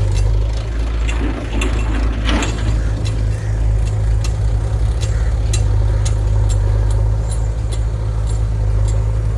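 Diesel engine running steadily with a deep hum, sharp ticks scattered over it, and a brief swell of louder noise about two seconds in.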